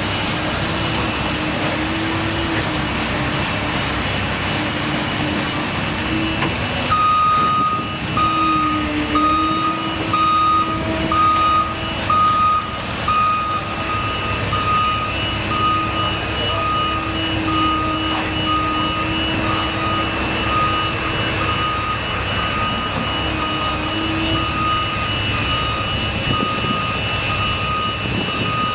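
Heavy construction vehicle's engine running, joined about a quarter of the way in by its reversing alarm, a steady series of evenly spaced single-pitch beeps that continues to the end.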